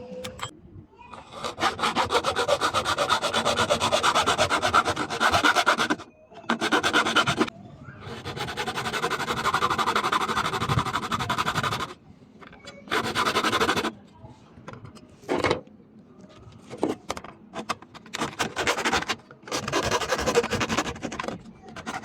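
Abrasive rubbing on a workpiece in several bursts of a few seconds each, a rapid scratchy stroking with short pauses between bursts.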